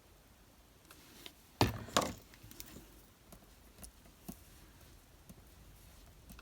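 Two sharp knocks about half a second apart, then a few faint light clicks: craft tools and paper pieces handled and set down on a desk.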